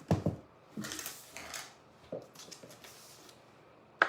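Handling noise: a few rustles, light knocks and scrapes, with one sharp click near the end.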